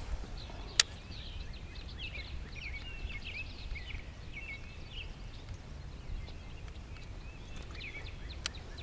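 Small birds chirping and twittering in quick, jumbled calls, busiest in the first five seconds, over a low steady rumble. A sharp click sounds about a second in and another near the end.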